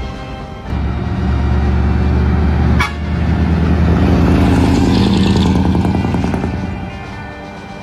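Dekotora truck's diesel engine running through dual exhaust mufflers, getting louder about a second in and staying loud, then easing off near the end. A short sharp crack cuts in just before the middle.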